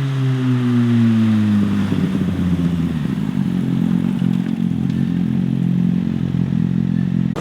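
Motorcycle engine passing on the road, its note falling over the first two seconds, then holding a steady drone.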